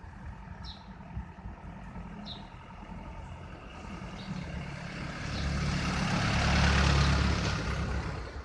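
A motor vehicle driving past: engine rumble and road noise swell to a peak about seven seconds in, then fade.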